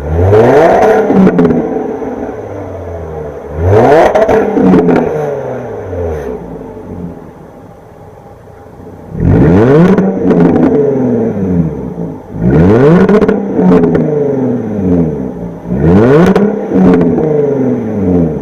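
Jaguar F-Type S's supercharged V6 being revved in neutral through its exhaust: about eight quick blips, each rising and falling back, with the engine settling to idle between them and quietest for a few seconds in the middle.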